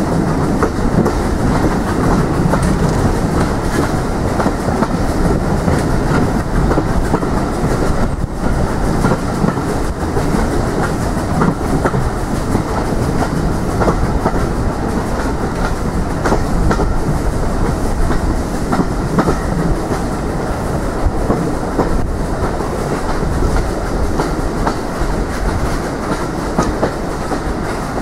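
A train running steadily along the track, its wheels clicking over the rail joints.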